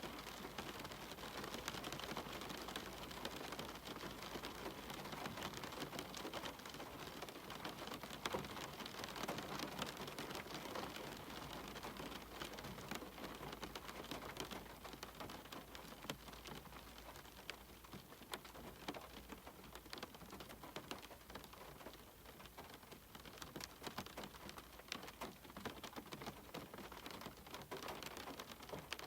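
Steady rain pattering on a cabin's window and roof, with many fine drop ticks, easing slightly about halfway through.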